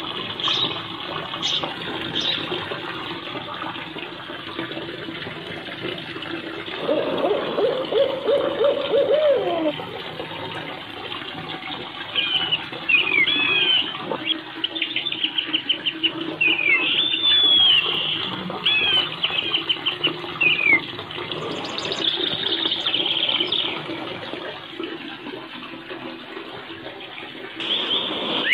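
Birds chirping and trilling in quick bursts over a steady rushing hiss. About a quarter of the way in, a lower drawn-out hooting call lasts a couple of seconds and falls away at its end.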